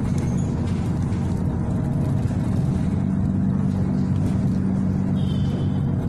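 City bus engine running steadily with road noise, heard from inside the passenger cabin. A brief faint high squeal comes about five seconds in.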